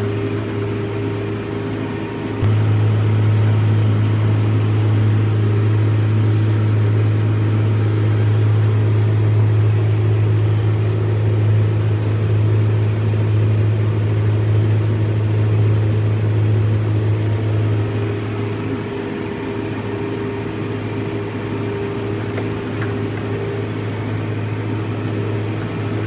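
Farm tractor engine running steadily with a deep, even hum. It gets louder about two and a half seconds in and eases slightly later on.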